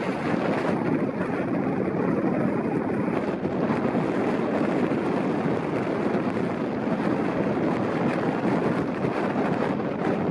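Wind blowing hard across the microphone: a steady rushing noise.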